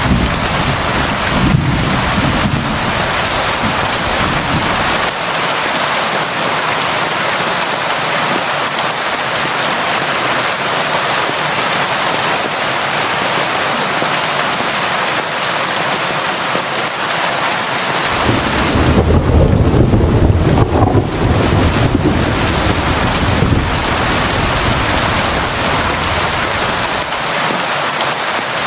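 Steady, heavy rain falling. A deep rumble of thunder runs through the first few seconds and rolls in again about eighteen seconds in, fading over several seconds.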